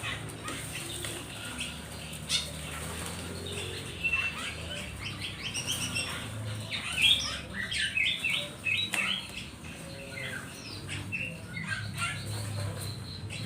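Many small caught birds chirping and fluttering their wings together: a dense, irregular scatter of short high chirps and rustles, busiest around the middle.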